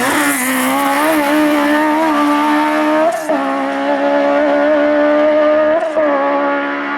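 Race car engine held at high revs on a hillclimb run, a steady high engine note with two quick gear changes, about three seconds in and near six seconds.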